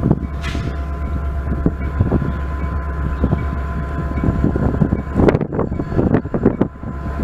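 Wind buffeting the microphone over the low, steady rumble of a Metra commuter train approaching in the distance, with a strong gust about five seconds in.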